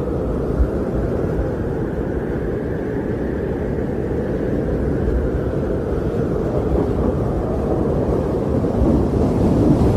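Winter wind blowing steadily in a snowstorm, a low rushing that swells slightly and eases without a break.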